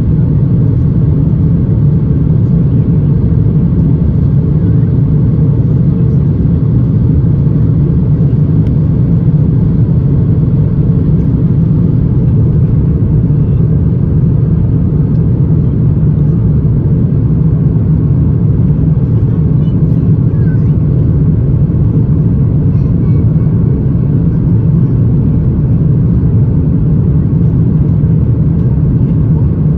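Steady cabin noise inside an Airbus A350 in flight: the airflow and Rolls-Royce Trent XWB engines heard as an even, low rumble that does not change.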